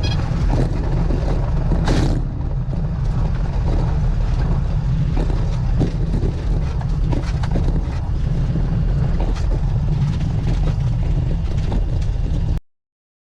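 Cessna 182 engine and airframe running as a steady, loud low rumble, with frequent knocks and rattles and a short burst of noise about two seconds in. The sound cuts off abruptly near the end.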